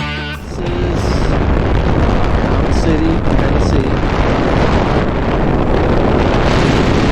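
Steady wind rush over the microphone and engine and road noise from an adventure motorcycle riding at speed, after a short end of music in the first moment.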